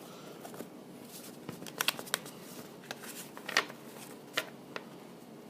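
Trading cards being handled and sorted by hand: a handful of short, sharp flicks and clicks of card stock.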